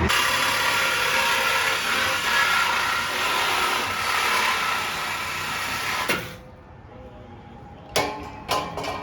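A shop power tool runs steadily for about six seconds with a harsh hiss and then cuts off suddenly, most likely cutting the exhaust pipe to remove the muffler and resonator. Two sharp metal knocks follow near the end.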